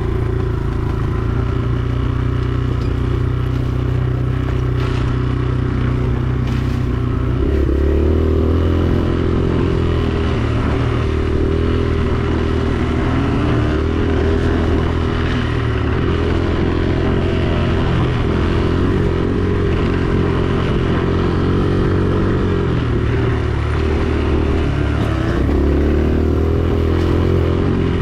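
Dirt bike engine running steadily while riding, its pitch shifting about eight seconds in and again near the end as the throttle changes.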